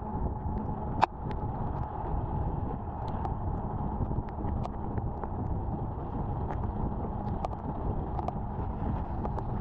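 Wind rushing over the microphone and road noise from a moving Activa scooter, a steady rumble with many scattered sharp ticks and one louder click about a second in.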